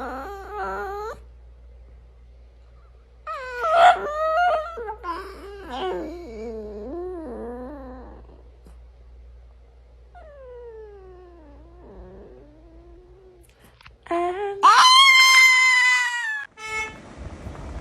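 A dog howling in long, wavering, pitched notes, with a slow falling howl partway through. Near the end a much louder, higher call follows.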